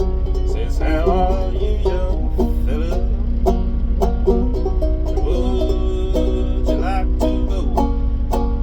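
Five-string banjo played clawhammer style: a steady instrumental run of plucked notes, some of them sliding in pitch.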